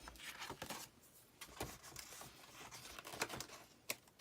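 Faint rustling and crinkling with light scattered clicks: a plastic Chalk Couture transfer sheet being handled.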